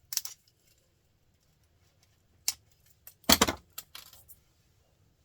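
Screwdriver prying at a small printer motor, metal clinking and scraping against the casing as the copper winding is worked loose. It comes in a few separate sharp clicks, with the loudest cluster a little past halfway.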